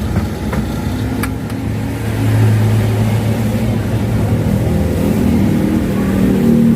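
Road traffic: a motor vehicle's engine running close by, growing louder about two seconds in as it passes.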